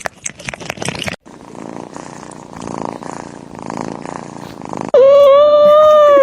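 Domestic cat purring in slow swells, with a few clicks at the start. About five seconds in, a loud, steady, high held cry takes over until the end.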